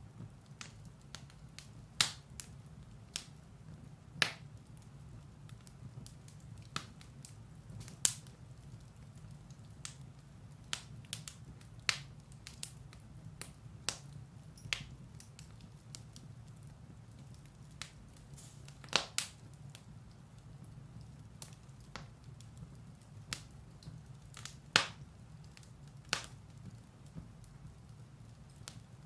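Firewood burning in a fireplace, crackling with sharp, irregularly spaced pops, some loud and many faint, over a low steady rumble.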